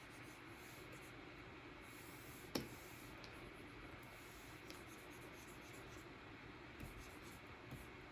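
Faint scratching of a Wacom stylus nib drawing strokes across a Cintiq pen display, with one sharp tap about two and a half seconds in and a few lighter ticks later.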